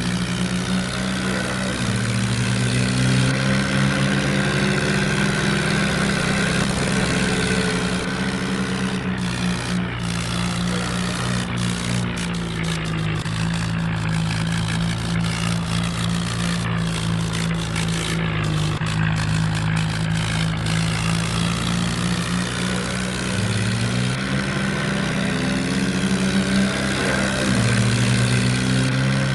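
Kubota tractor engine running steadily under work, its pitch shifting up and down a few times as the engine speed changes.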